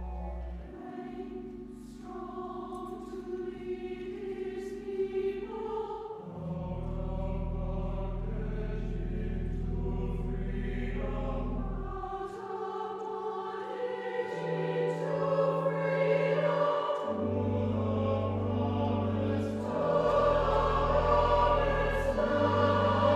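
Church choir singing an offertory anthem over held low accompaniment notes that change every few seconds, the singing growing louder toward the end.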